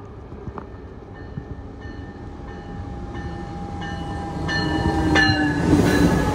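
Passenger train approaching and pulling alongside the platform, growing steadily louder into a heavy rumble near the end. A steady high tone and a bell-like ring repeating about every two-thirds of a second sound over the approach.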